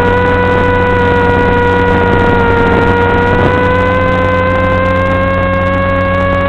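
Electric motor and propeller of an FPV flying wing running steadily in flight, a constant whine that dips slightly in pitch around the middle and then slowly rises as the throttle changes.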